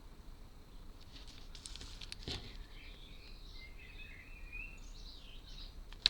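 Quiet handling of a tiny glued part with tweezers: a few faint sharp clicks, the sharpest just before the end, with faint bird chirps in the background in the second half.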